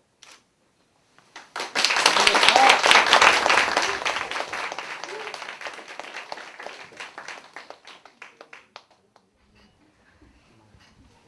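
Many people clapping: it starts abruptly about a second and a half in, is loudest for a couple of seconds, then thins out to scattered claps.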